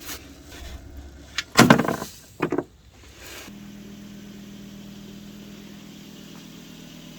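Volvo V70's five-cylinder petrol engine idling steadily, setting in about three and a half seconds in after a couple of loud, brief noises.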